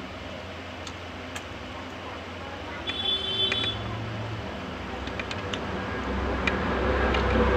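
Small clicks and wet mouth sounds of eating rice and curry by hand over a steady low background hum. About three seconds in there is a short high beeping tone, and a low rumble builds near the end.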